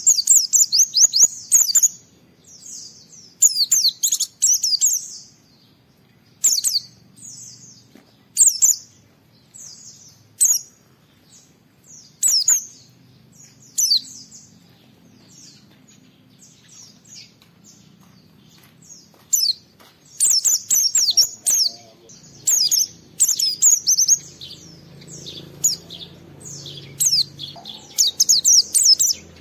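White-eye (pleci) singing vigorously: bursts of rapid, high twittering chirps in phrases of a second or more, separated by short pauses, a few longer runs near the middle and end. It is the energetic, rival-challenging song (gacor) that keepers play to provoke other white-eyes into answering.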